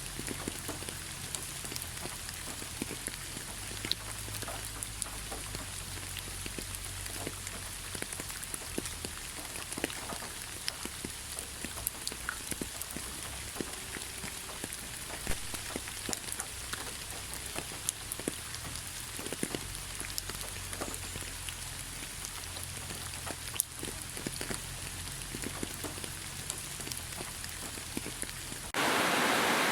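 Steady rain falling, with many distinct drops striking a surface on top of the even hiss. Just before the end it cuts abruptly to a louder, steady rushing noise.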